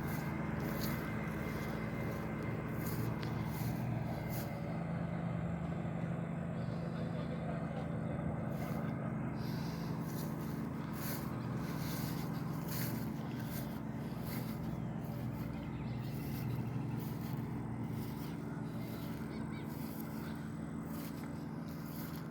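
An engine running steadily at an even, unchanging pitch, with irregular short hissing noises on top.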